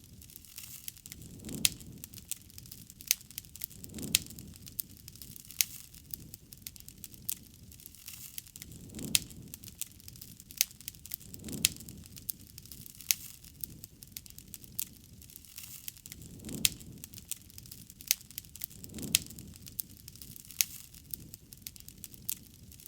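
Wood fire crackling, with frequent sharp snaps and pops over a soft low rush that swells about every two and a half seconds.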